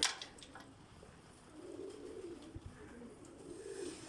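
Domestic pigeons cooing in a loft, a low wavering coo that comes in about a second and a half in and runs for a couple of seconds. A sharp click sounds right at the start.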